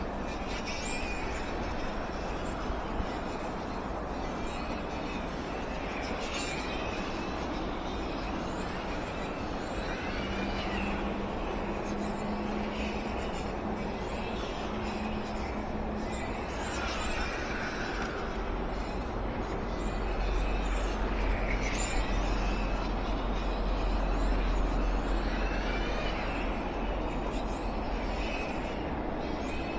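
Outdoor ambience: steady traffic-like noise with many short bird chirps scattered through it. A deep rumble, like a heavy vehicle passing, swells about two-thirds of the way in, then eases off.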